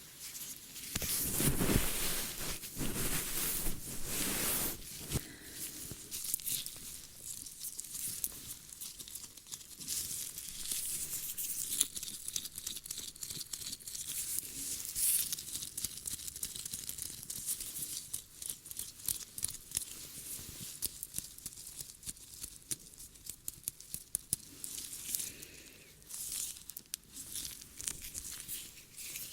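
Close-miked ASMR ear-cleaning sounds: crackly scratching and rubbing of ear-cleaning tools, loudest for a few seconds near the start, then a steady fine crackle of many small clicks.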